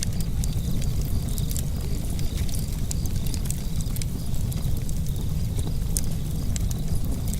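Wood fire burning in a fireplace, crackling: frequent sharp pops and snaps scattered irregularly over a steady low rumble of the flames.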